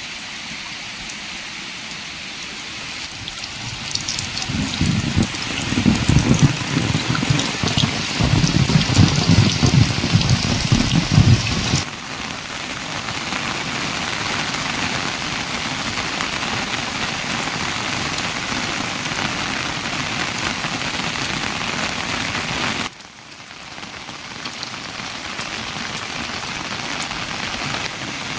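Steady heavy rain falling. From about four seconds in, a loud, uneven low rumble rides over it for several seconds and then cuts off abruptly.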